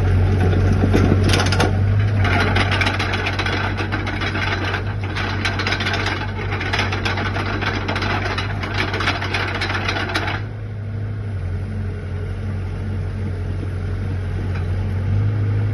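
SANY SY60C mini crawler excavator's diesel engine running steadily, with a dense mechanical rattling and clattering over it that stops abruptly about ten seconds in, leaving the engine running on its own.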